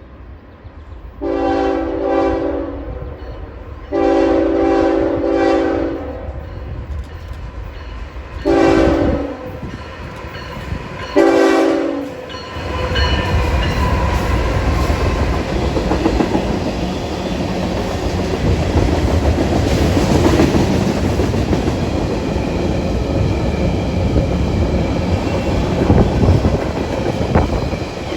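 Diesel locomotive horn sounding the grade-crossing signal, long, long, short, long, followed by the train passing close with a steady rumble and wheels clacking over the rail joints.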